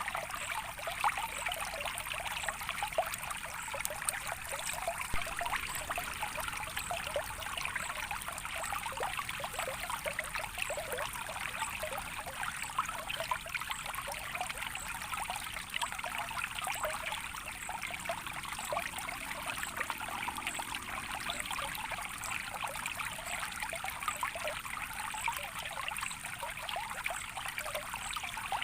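Small stream of water trickling steadily, with a constant patter of tiny gurgles and splashes.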